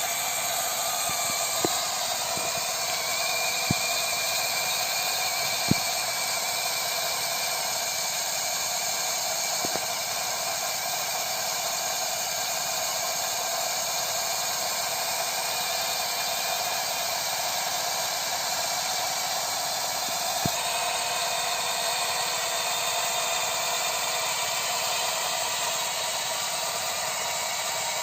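Kubota DC-93 combine harvester running steadily as it cuts rice a distance away, a constant hiss-like machine noise, with a few sharp clicks now and then.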